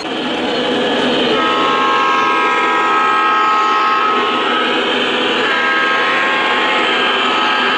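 O gauge model train running on its track with a steady rumble, while its locomotive's onboard sound system sounds a multi-note horn twice: a long blast of about three seconds, then a second one about a second later.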